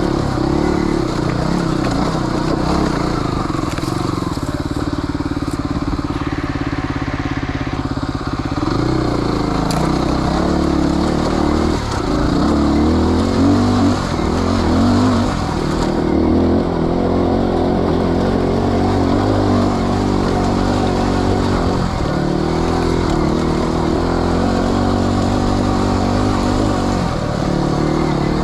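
Off-road motorcycle engine running under constantly changing throttle, its pitch rising and falling again and again as it is ridden over a rough trail.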